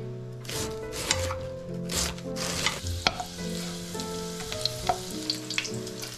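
Ginger, garlic, star anise and dried chilli sizzling in hot oil in a wok, stirred with a spatula that clicks and scrapes against the pan. The sizzle starts a couple of seconds in.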